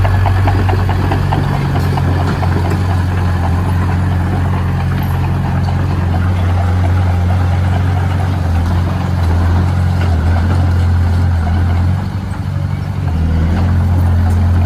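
Heavy diesel engine of a construction machine running steadily with a deep hum and mechanical clatter. It eases off briefly about twelve seconds in, then comes back up.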